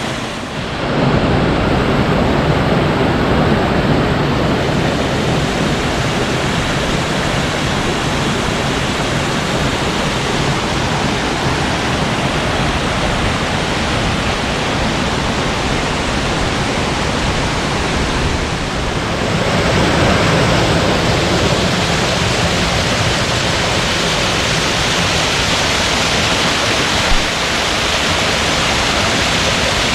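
Waterfall: a steady, loud rush of falling water, turning hissier about nineteen seconds in.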